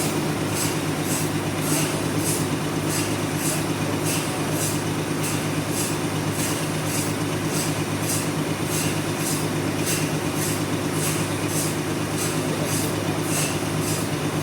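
Sawmill machinery running steadily under load while cutting a log: an even motor drone with a regular high hiss that pulses two or three times a second.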